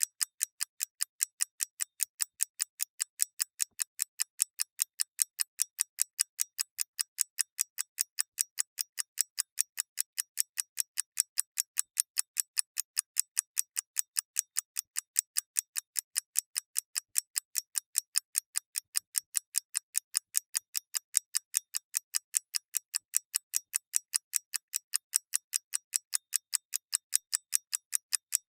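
Clockwork mechanism ticking steadily: sharp, even, high ticks, several a second, each the same loudness, with no low thud beneath them.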